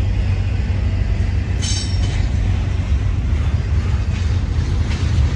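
Freight train rolling past with a steady heavy rumble, and a brief high wheel squeal about two seconds in.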